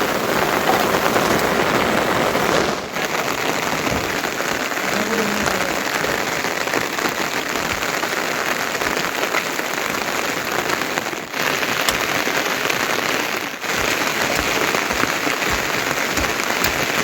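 Heavy monsoon rain pouring steadily, a dense, even hiss of rain on surfaces that dips briefly a few times.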